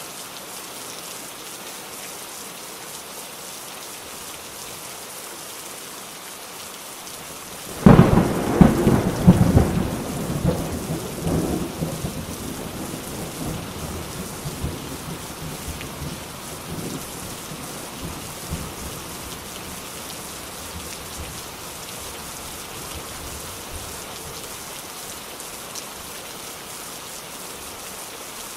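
Steady rain falling, with a sudden loud clap of thunder about a third of the way in that crackles and rumbles away over several seconds.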